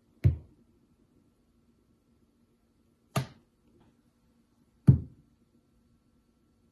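Three short, sharp knocks or taps, spaced irregularly, over a faint steady hum.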